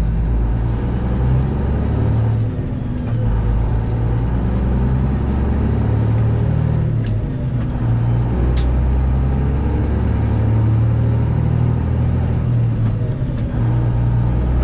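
Straight-piped Detroit Diesel 12.7 engine of a Freightliner Classic XL semi truck running loud and steady, its low note stepping up and down a few times. A couple of brief sharp clicks come through near the middle.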